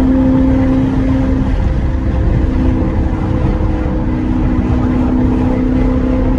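A 2014 Corvette C7's 6.2-litre V8 engine running at a steady, even pitch while driving, under a heavy low rumble of wind buffeting the microphone.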